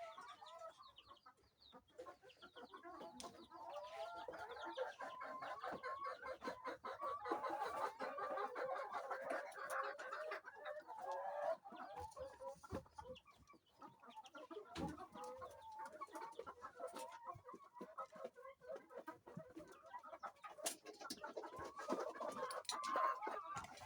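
A flock of laying hens clucking continuously, many birds calling over one another, busiest in the first half and again near the end, with a few sharp knocks in between.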